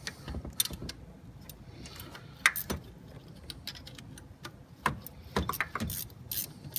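Irregular metallic clicks and clinks of hand tools and bolts being handled during the mounting of an AC compressor, more frequent in the second half.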